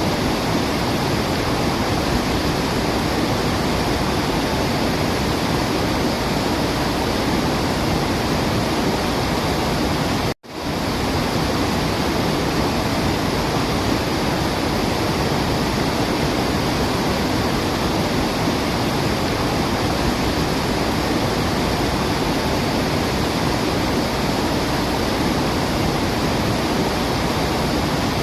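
Steady rush of falling water, an even hiss and roar with no birdsong heard. It cuts out for a split second about ten seconds in, then resumes unchanged.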